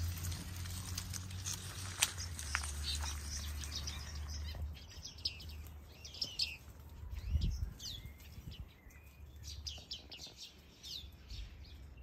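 Finches and other small aviary birds chirping and twittering, many short high calls overlapping, getting busier in the second half. A low rumble sits under the first few seconds, and there is a soft low thump about seven seconds in.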